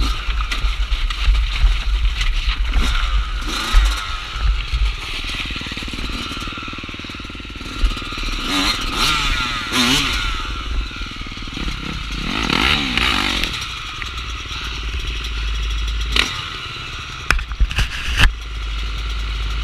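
Off-road dirt bike engine riding, its pitch rising and falling as the throttle opens and closes, over a heavy low rumble. Several sharp clattering knocks come near the end.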